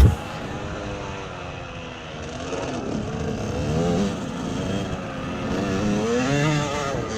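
Motocross dirt bike engine revving, its pitch rising and falling over and over.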